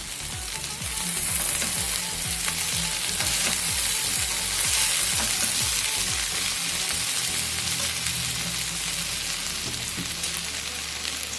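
Okra, green chillies and garlic paste sizzling in hot oil in a stainless steel pot as they are stirred with a slotted metal spoon: a steady frying hiss.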